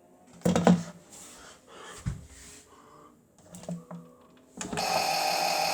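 Toy washing machine: a few plastic clicks and knocks, then about four and a half seconds in a steady, loud whirring starts as the machine goes into its spin.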